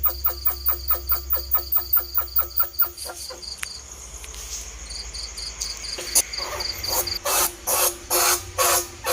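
Recorded squeaking calls of bandicoot rats, the kind played to lure them. A fast run of about five chirps a second for the first three seconds gives way to softer high chirps, then several longer, harsh squeals near the end.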